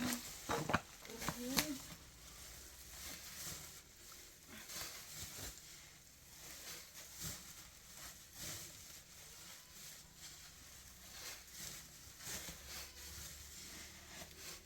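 A brief voice sound at the start, then quiet scattered rustling and light clicks or knocks over a low background hum.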